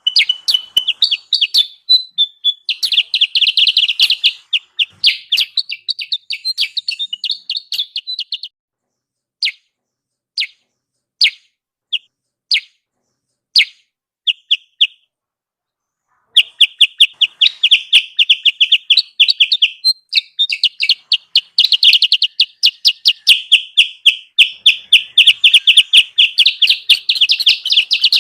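Lure recording of kutilang sutra calls: fast, dense chattering chirps. About nine seconds in it thins to single chirps spaced about a second apart, pauses briefly, then the dense chattering returns at about sixteen seconds and runs on.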